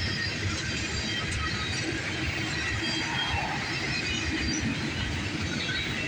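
Union Pacific intermodal stack train cars rolling past, a steady rumble of wheels on rail with brief, faint high-pitched wheel squeals scattered through it.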